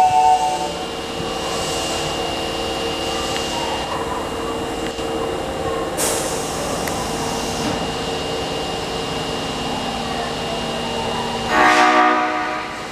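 Osaka Metro ex-OTS subway car's air horn giving one short blast near the end, after a stretch of steady train noise with a thin high tone. It is the horn that is known for sounding abnormal on this car.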